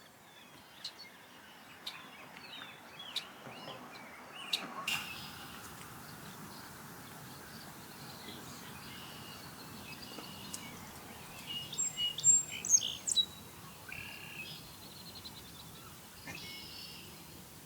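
Birds chirping and calling over a steady outdoor hiss, with a cluster of louder, sharp calls about twelve seconds in and a single click about five seconds in.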